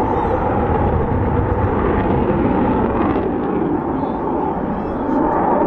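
Dassault Rafale jet fighter's twin M88 turbofans, a steady, loud jet noise as it flies its display.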